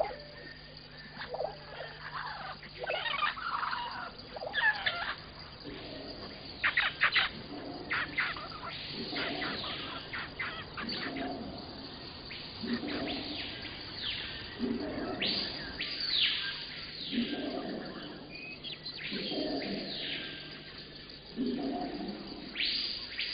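Birds chirping outdoors: many short downward-sweeping chirps, with a lower call that repeats about every second and a half from a few seconds in.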